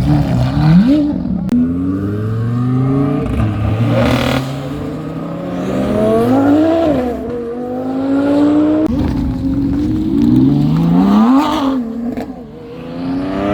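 Car engine revving hard, its pitch climbing and falling back several times.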